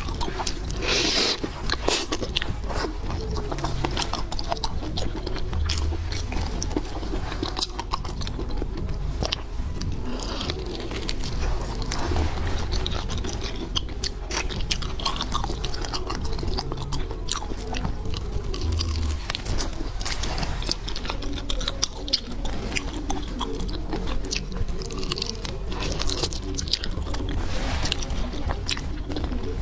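Close-miked chewing and biting of seafood, with continuous crunching and many quick wet clicks.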